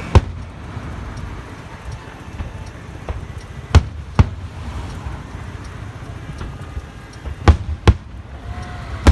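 Aerial firework shells bursting: six sharp bangs, the middle four in pairs about half a second apart, over a steady low background noise.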